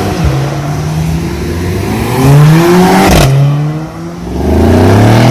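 Sports car engine accelerating hard, its note climbing in pitch, with a short sharp crack about three seconds in; the note drops briefly and then climbs again.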